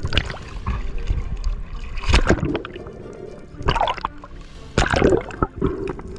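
Water sloshing and gurgling around the camera in uneven bursts, the loudest about two, three and a half, and five seconds in.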